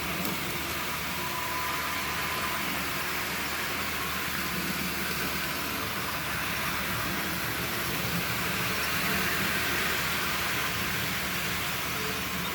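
Toy Thomas the Tank Engine train running around its track, a steady, even whir of its motor and wheels.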